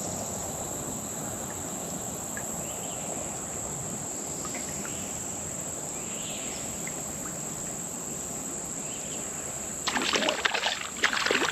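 Steady high-pitched chorus of summer insects with scattered faint chirps. Near the end a loud, irregular spell of rustling and clicking close by breaks in.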